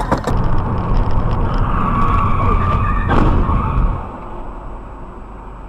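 Vehicle engine and road rumble, which drops off about four seconds in, with a short sharp knock about three seconds in.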